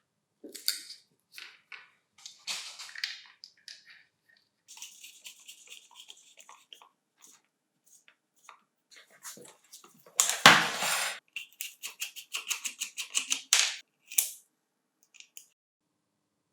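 Hand tools working on the parts of an old Hitachi G18Y1 angle grinder: scattered clicks and short scrapes, a louder scrape about ten seconds in, then a fast run of clicks lasting a few seconds.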